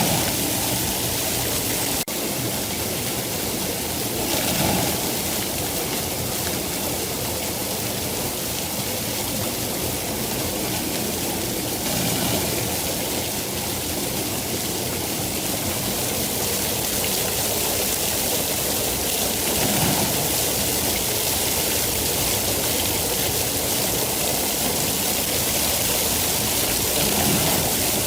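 Steady heavy rain, a dense even hiss that swells briefly in its lower rumble now and then.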